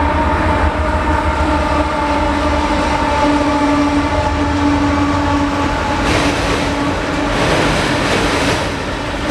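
Canadian Pacific freight train passing: a steady low rumble with several steady tones, then surges of rushing wheel noise from about six seconds in.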